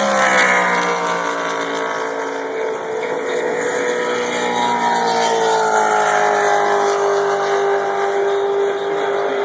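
Loud truck engines running, their engine note dropping in pitch during the first second and again around the middle, then holding steady.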